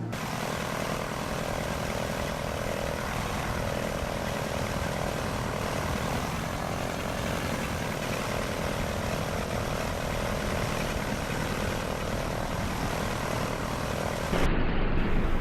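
Propeller aircraft engine droning steadily, with a faint held tone. About a second before the end it cuts abruptly to a louder, duller rushing noise.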